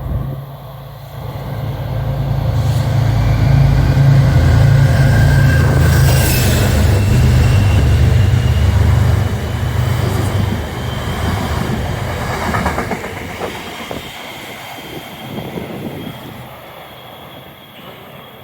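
A train passing close by on the Northeast Corridor: a loud low rumble swells over the first few seconds, holds for several seconds with a faint high whine of wheels on rail, then fades away.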